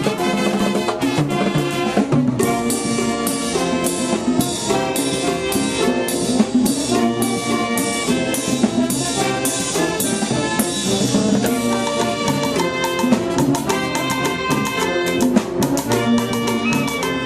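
Live Latin tropical band music: a brass section of trumpets, trombones and saxophones playing melody lines over steady drum-kit and percussion strokes.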